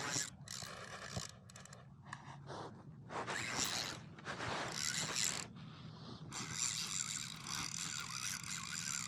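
Fishing reel being cranked in several spurts with short pauses, its gears whirring and clicking, as a small hooked fish is reeled in. The last spurt is the longest.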